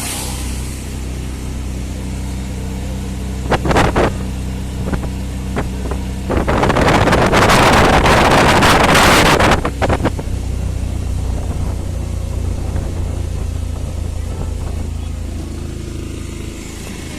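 Steady low drone of a moving motor vehicle. Two short loud knocks come just before four seconds in, and a loud rushing noise lasts about three seconds in the middle.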